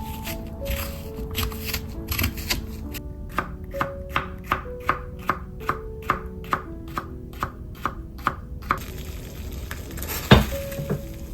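Kitchen knife chopping on a cutting board in an even rhythm of about two to three strokes a second, then stopping, with one heavier knock near the end. Soft background music plays throughout.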